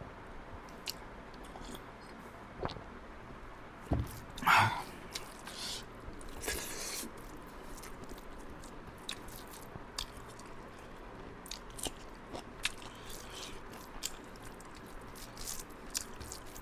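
A person chewing and biting food close to the microphone: soft wet clicks and smacks of the mouth, with a couple of louder mouth noises about four to five seconds in.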